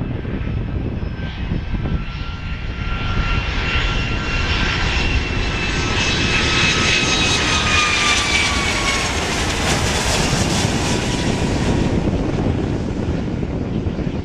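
Boeing 757-300 airliner's jet engines passing close on landing: a whine of several tones that slowly falls in pitch, with a rushing noise that swells to its loudest around the middle and eases toward the end, over a steady low rumble.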